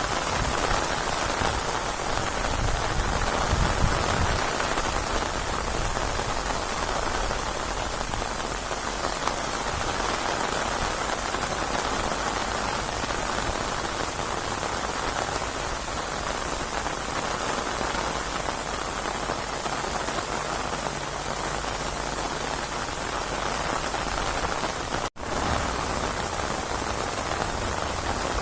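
Steady rain falling, an even hiss of drops on surfaces, cutting out for an instant near the end.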